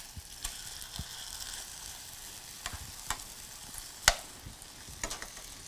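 Chicken breasts sizzling in a hot skillet as they are lifted out, with a few sharp clicks of the utensil against the pan, the loudest about four seconds in.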